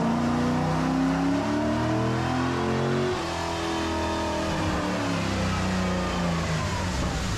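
Car engine under hard acceleration. Its pitch climbs, drops about three seconds in as at a gear change, then climbs again.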